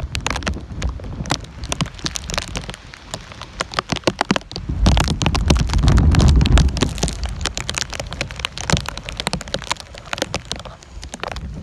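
Storm rain hitting a hard surface close to the microphone in many sharp, irregular drops. A gust of wind buffets the microphone with a low rumble about five seconds in, easing off about two seconds later.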